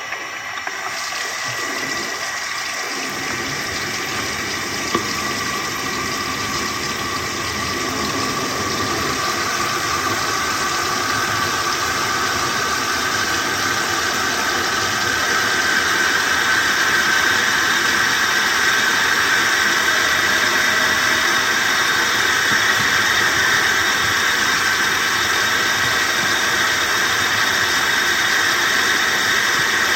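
Running water: a steady rushing hiss that grows gradually louder over the first half, then holds.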